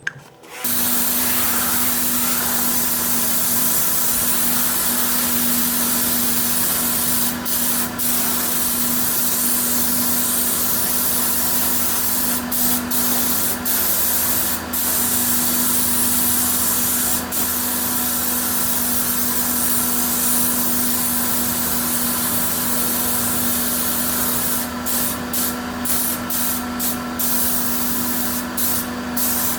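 Compressed-air spray gun hissing steadily as paint is sprayed, over a steady low hum. The hiss breaks off for a moment several times, more often near the end.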